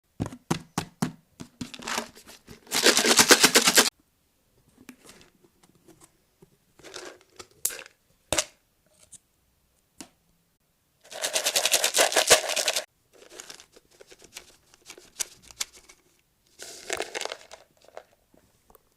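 A cat chewing a treat close to the microphone: several bursts of rapid crunching with pauses between, the loudest about three seconds and twelve seconds in, and a few single clicks of the jaws at the start.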